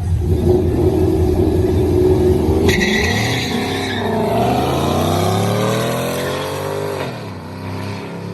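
Car engine running with a deep low note, then launched hard about three seconds in and accelerating through the gears: the pitch climbs, dips at a shift, climbs again, and falls away near the end as the sound fades.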